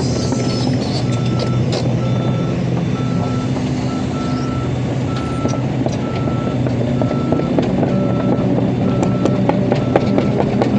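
A heavy machine's backup alarm beeps steadily at about one and a half beeps a second, over a diesel engine running.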